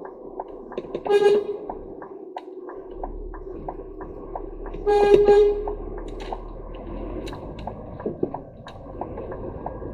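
Vehicle horn sounding twice: a short toot about a second in, then a longer blast about four seconds later. A steady ticking runs underneath at about two ticks a second.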